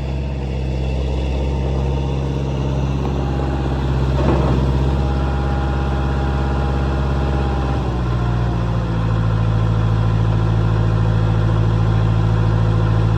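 Swinger 3000 compact wheel loader's four-cylinder John Deere engine running steadily. About eight seconds in, its note changes and it grows slightly louder.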